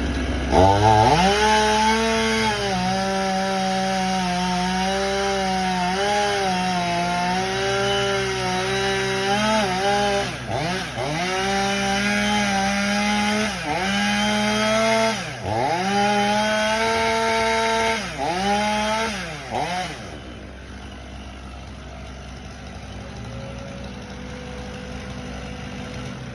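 Two-stroke chainsaw revved up to full throttle about half a second in and held there for about twenty seconds, its pitch dipping briefly several times as it cuts wood. Near the end it is let off, leaving a quieter, lower engine sound.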